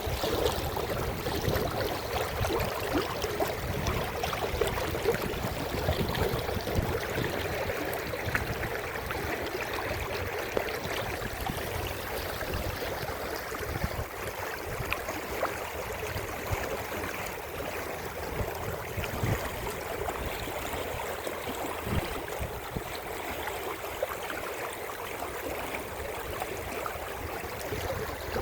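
Running water, like a small stream, flowing steadily with a dense, crackling texture, a little louder in the first half.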